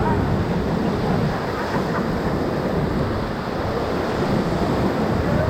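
Ocoee River whitewater rushing steadily around the raft, with wind noise on the microphone.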